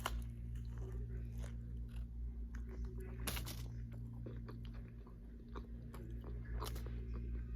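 Close-miked chewing and biting of Subway food, with scattered short crunches, over a steady low hum.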